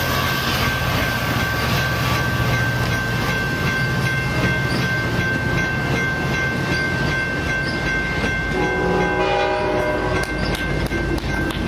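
Amtrak passenger train rolling past at close range: steady rumble and wheel clatter on the rails, with a thin, steady high squeal over it. About eight and a half seconds in, a multi-note horn chord sounds for about two seconds, the lead F59PHI locomotive's horn sounding up the line.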